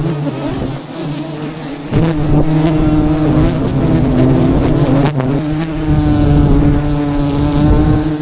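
A swarm of bees buzzing steadily at a fairly constant pitch, with a couple of knocks in between.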